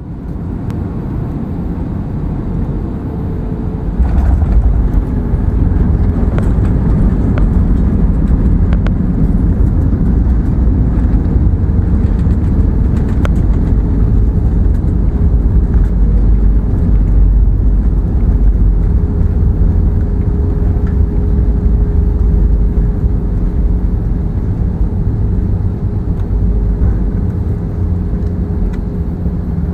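Steady low rumble of a running vehicle, growing louder about four seconds in and then holding, with a faint steady hum over it.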